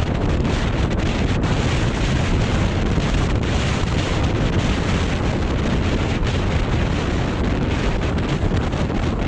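Strong wind buffeting the microphone: a loud, steady rush, heaviest in the low end.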